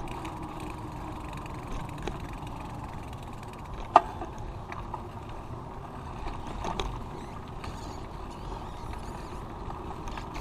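Steady rolling and wind noise of a bicycle being ridden on the road. A single sharp click about four seconds in is the loudest moment.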